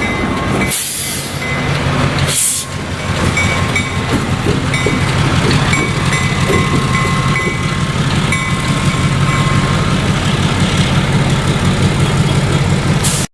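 Diesel-hauled freight train moving along the track, the locomotive engine running steadily. Intermittent high squeals come from the train, and two short rushes of hiss sound in the first few seconds. The sound cuts off abruptly at the end.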